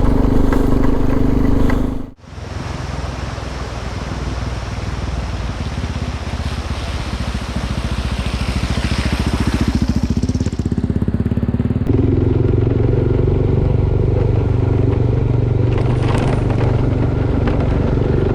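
A vehicle engine running steadily while driving, with a sudden dropout about two seconds in. It is followed by a rougher, noisier stretch with a rising hiss, and the steady engine note returns about twelve seconds in.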